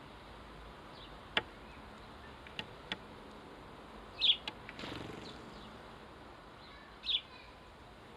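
House sparrows chirping: two short high chirps, about four and seven seconds in, with a few sharp ticks earlier and a brief rush of noise around five seconds.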